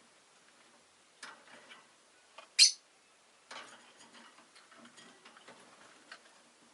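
Rosy-faced lovebird making scattered small clicks and taps, with one short, sharp, high chirp about two and a half seconds in.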